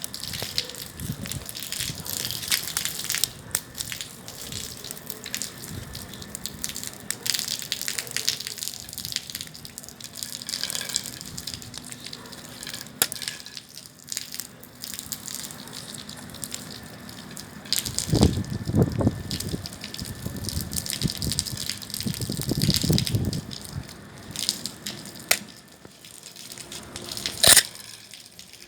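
Bonfire burning, crackling and popping continuously, with two low rushing swells about two-thirds of the way through and one sharp loud pop near the end.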